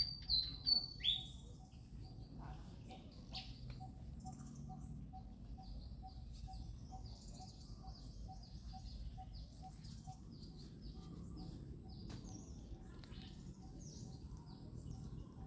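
High-pitched chirping animal calls: a few loud, falling chirps in the first second or so, then many faint overlapping chirps, with a soft pip repeating about three times a second.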